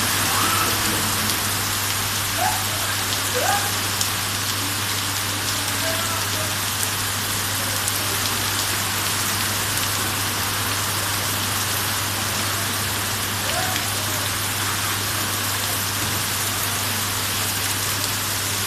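Steady rain falling, an even hiss of drops on surfaces with no letup.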